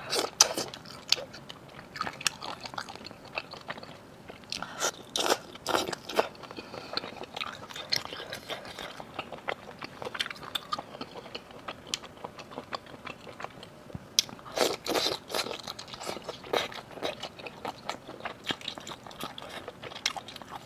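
Close-miked eating of spicy seafood: irregular crunchy bites and chewing, with louder bursts of crunching about five seconds in and again near the fifteen-second mark.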